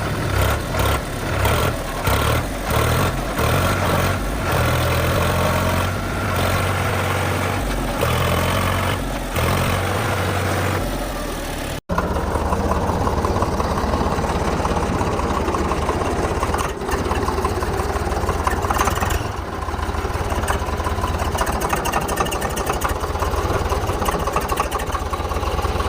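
Diesel tractor engines running, uneven and changing in the first half, then after an abrupt cut about twelve seconds in, a steadier, evenly pulsing engine note.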